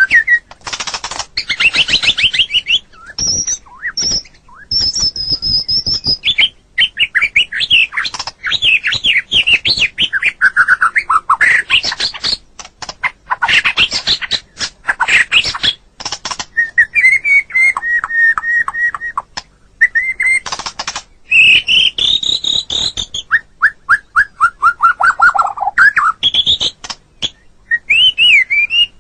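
White-rumped shama (murai batu) singing a varied song: clear whistles, fast trills and runs of quick descending notes, phrase after phrase with short pauses between.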